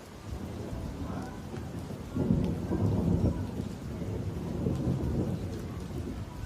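Thunder rumbling over steady rain. The rumble swells about a third of a second in, is loudest between about two and three and a half seconds in, then keeps rolling more softly.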